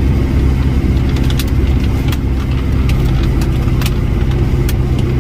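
A vehicle engine running steadily at low speed, a low even hum, with a few scattered light clicks.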